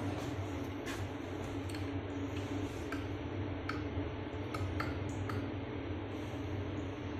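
Scattered light clicks and small taps of parts being handled during a basin diverter repair, over a steady low hum.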